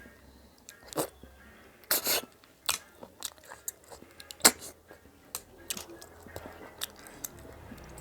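A person sucking freshwater snails (ghonghi) out of their shells: a string of short, sharp slurps about a second apart, the longest about two seconds in and the loudest about halfway through, with some chewing between them.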